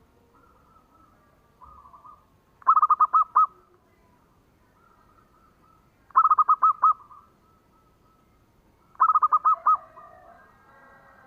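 Zebra dove (perkutut) singing: three loud phrases about three seconds apart, each a quick run of six or seven rapid cooing notes. Fainter calls can be heard between the phrases.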